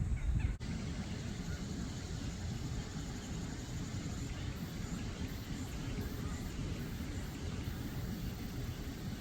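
Steady low rumble of outdoor background noise, with a brief dropout about half a second in.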